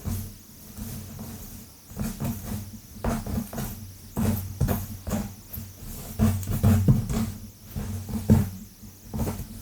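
Long fingernails scratching fast through hair and over a scalp in quick, irregular strokes, with a low rubbing rumble under the scratches.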